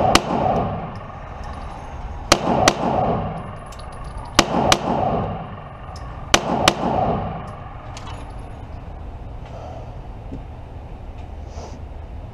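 9mm pistol shots, most likely the CZ TS2: one shot right at the start, then three double taps about two seconds apart, each shot echoing briefly. After the last pair, about seven seconds in, the firing stops.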